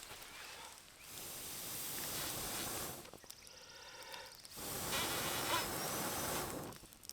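Two long, steady blows of air, each about two seconds, hissing through a collapsible fire-bellows tube into campfire embers.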